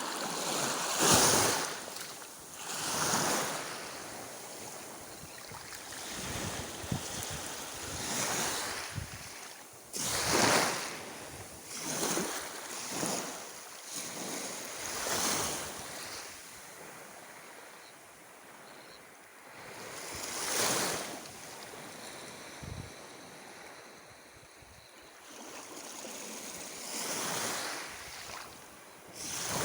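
Sea waves breaking and washing up the beach: a rushing surf that swells and fades again with each wave, every two to five seconds.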